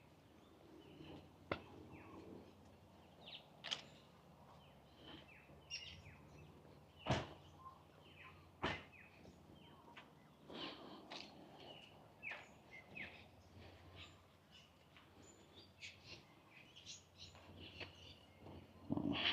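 Birds chirping and calling in short, scattered notes, with a few sharp knocks; the two loudest knocks come about seven and nine seconds in.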